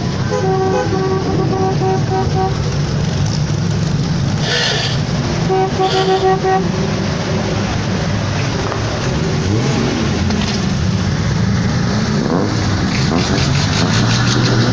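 Car engines running, with brief surges and rises in pitch as engines are revved. Short repeated horn-like notes sound near the start and again around six seconds in.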